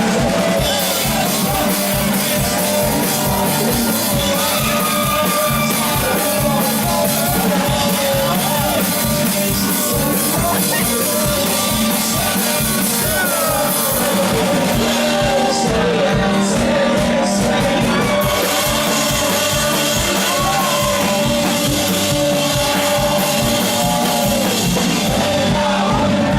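Live rock band playing loudly, with a steady drum-kit beat under guitars and singing.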